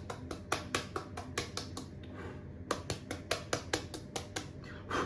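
Quick, regular scraping clicks, about four or five a second, from a small hand tool being worked over the iPhone XR's housing to clean it. The strokes pause briefly about two seconds in and then resume, with a louder stroke near the end.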